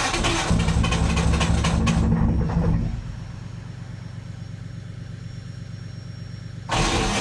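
Detroit Diesel 6V53T two-stroke turbocharged V6 diesel running just after a cold start: loud for about the first three seconds, then dropping to a quieter steady idle, and suddenly loud again near the end.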